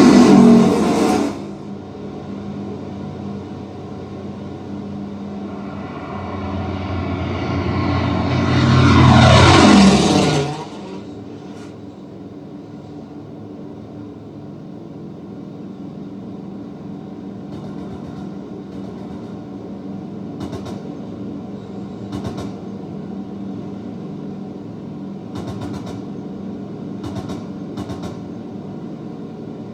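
War-film soundtrack of propeller aircraft played through in-ceiling home-theater speakers: a steady engine drone with two planes swelling past overhead, the second about nine seconds in and dropping in pitch as it goes by, then a lower drone with a few short sharp cracks.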